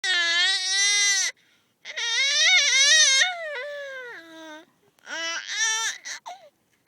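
A baby crying in protest at being strapped into a car seat: a long high wail, a second longer wavering one that trails off, then short broken sobs near the end.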